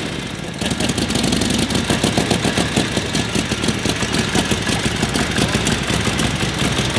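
1942 Harley-Davidson WLA's 45-cubic-inch flathead V-twin idling with a steady, even pulse, a little louder after the first half second.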